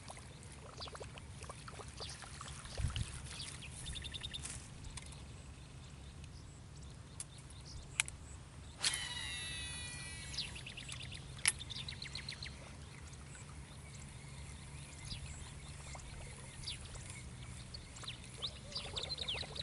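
Small birds chirping and trilling over a steady low hum. About nine seconds in, a sharp click is followed by a whirring whine falling in pitch for about a second and a half, the sound of a baitcasting reel's spool spinning out on a lure cast.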